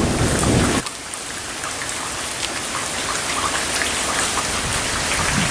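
Heavy rain falling: a steady hiss of rain with the fine patter of drops hitting the ground. A low rumble sits under it for the first second or so, then stops.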